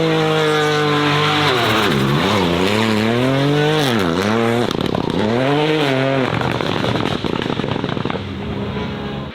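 Race car engine running hard, its pitch dropping and climbing back up about four times in quick succession. After about six seconds the engine note gives way to a rushing noise that fades away.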